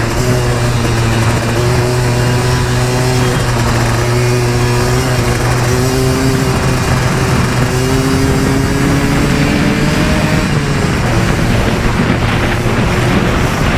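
Yamaha Blaster 200 ATV's two-stroke single-cylinder engine running under throttle while riding, its pitch rising and falling in steps over a constant rush of wind and terrain noise. A little past ten seconds in, the engine tone fades into the rushing noise for a few seconds, then returns.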